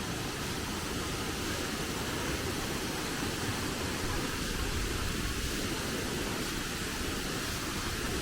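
Millaa Millaa Falls rushing steadily: an even, unbroken roar of falling water.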